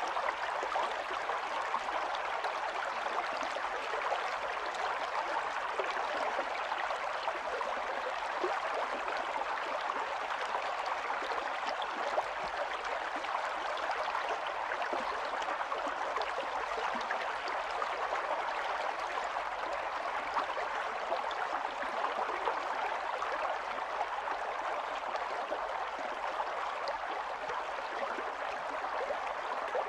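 Shallow stream running steadily, water splashing and gurgling over stones.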